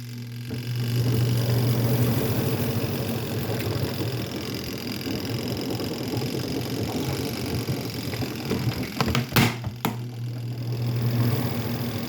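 Kuppet twin tub portable washing machine running: a steady low motor hum with a rough churning rattle over it, and a couple of sharp knocks about nine seconds in.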